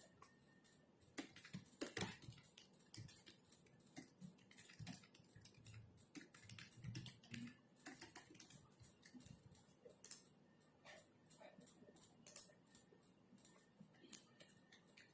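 Faint typing on a computer keyboard: irregular runs of keystroke clicks with brief pauses between them.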